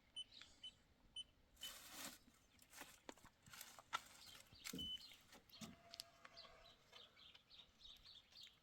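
Faint background with short bird chirps, a few scattered clicks and a brief rustle about two seconds in.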